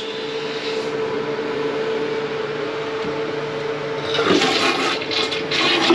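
Toilet flushing: a steady rush of water with a faint steady tone underneath, growing louder and more turbulent about four seconds in.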